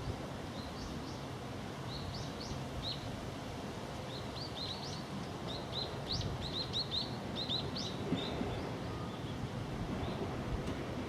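Small birds chirping, a rapid run of short high chirps over a steady background hiss and rumble of outdoor noise.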